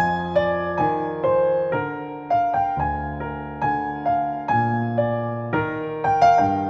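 Slow, gentle solo piano music, single notes and chords struck about twice a second and left to ring.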